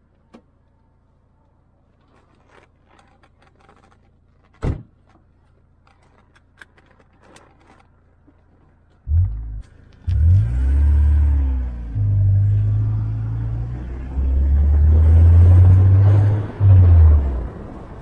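Faint clicks and one sharp thump about five seconds in. From about nine seconds in, a 1998 Fiat barchetta's 1.8-litre four-cylinder engine is heard driving, its pitch rising and falling, then holding in steps over road and wind noise.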